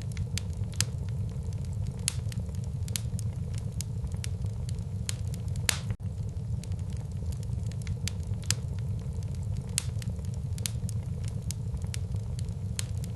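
Wood fire burning in a fireplace: irregular sharp crackles and pops over a steady low rumble of the flames, with a few louder pops.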